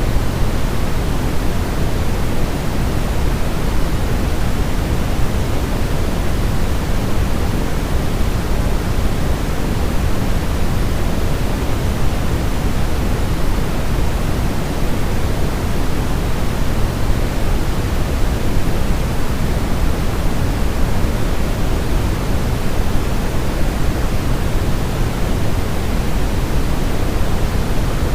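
Steady synthetic sleep noise, an even hiss that is heavier in the low end than in the treble and never changes in level.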